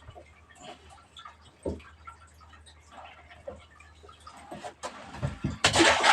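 Scattered light knocks and clicks over a faint low hum, with a thump about two seconds in and a louder burst of splashing water near the end.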